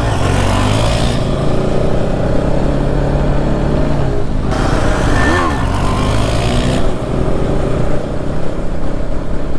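Bajaj Pulsar NS200's single-cylinder engine accelerating under the rider. Its pitch climbs, drops about four seconds in and climbs again, with wind rush on the helmet microphone.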